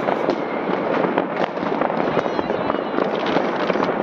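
Many fireworks and firecrackers going off at once: a dense, steady crackle of pops and bangs with no pause.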